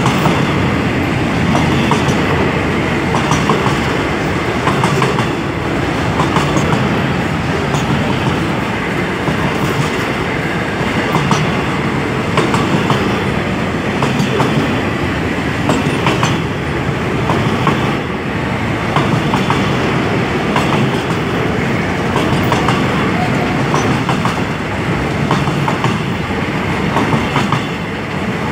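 A freight train of covered hopper wagons rolling past at close range. The wheels keep up a steady rumble on the rails, with frequent clacks and knocks and a faint steady high tone.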